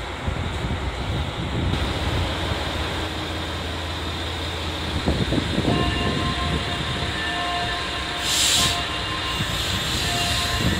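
Limited express train pulling out along the platform, with a steady low rumble and broken, high-pitched wheel squeal from about six seconds in. A short hiss stands out about eight seconds in.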